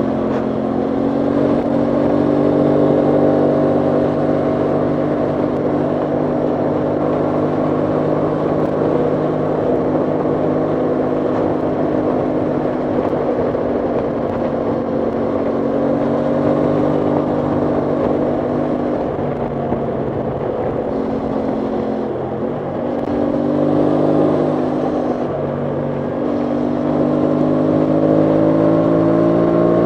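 Aprilia Tuono 660 Factory's parallel-twin engine running steadily while riding, its pitch slowly rising and falling; about two-thirds through it drops and picks up a few times as the throttle is eased and reopened, then climbs near the end. Wind rushes over the microphone throughout.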